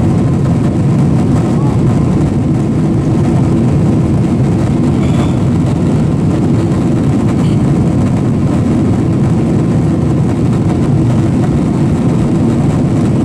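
Steady cabin drone of a Boeing 767-400ER in flight: jet engine and airflow noise heard from inside the passenger cabin, a loud, even low rumble that stays level throughout.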